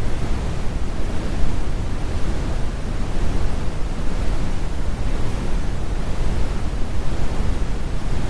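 Steady heavy brown noise, generated rather than recorded: a deep, even rumble with its weight in the bass and little hiss.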